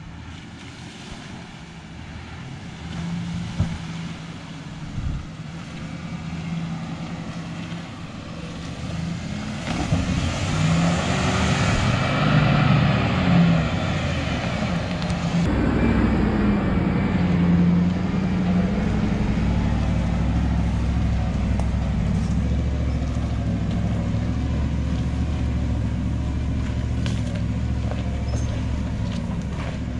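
Full-size Chevrolet 4x4's engine running as it drives, growing louder; about ten seconds in it revs, its pitch rising and falling a few times, then it settles into a steady, heavier low drone.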